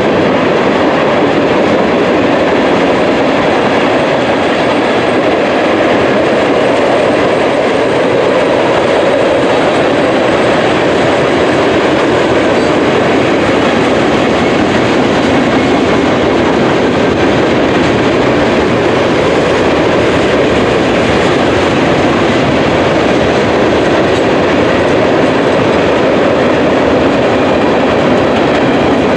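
Freight train cars rolling past: a loud, steady noise of steel wheels running on the rails.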